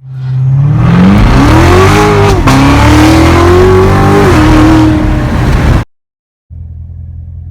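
2017 Corvette Z06's supercharged V8 accelerating hard, its pitch climbing, dropping at two quick upshifts and climbing again, then cut off abruptly; after a brief silence the engine idles with a steady low rumble.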